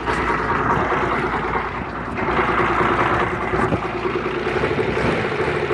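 An engine running steadily, a continuous noisy drone with a faint steady hum under it.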